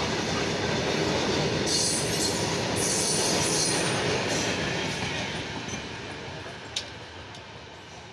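Open freight wagons rolling past on the track: a steady rumble and rattle of wheels on rail with short spells of high hiss, fading as the end of the train draws away. A single sharp click comes about seven seconds in.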